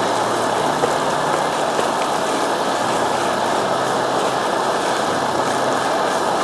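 MSR DragonFly liquid-fuel camp stove burning with a steady roar.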